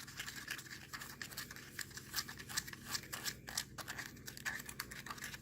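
A spoon stirring and scraping a damp, crumbly powder paste in a small cup: quick, irregular, faint scratching strokes.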